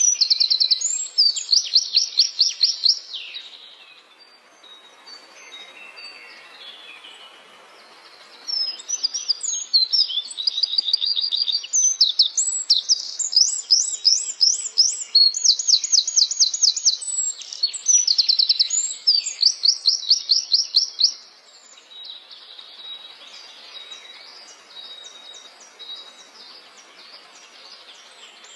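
A small songbird, the Indonesian 'cabe rawit' (a flowerpecker), singing in loud bursts of fast, very high trills and sharp chips. There is a lull around the fourth to eighth second, then a long run of trills until about three quarters of the way through, after which only faint thin notes remain.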